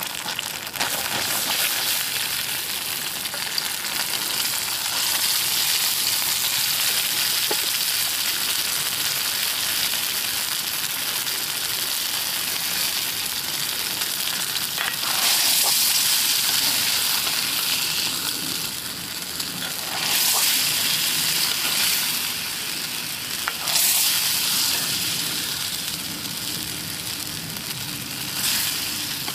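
Food frying and sizzling in an iron wok, with louder surges of sizzle about 15, 20 and 24 seconds in and a few light clicks.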